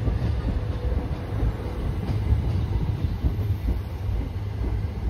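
Southeastern electric passenger train moving slowly alongside the platform, a steady low rumble from its wheels and running gear with a faint steady hum above it.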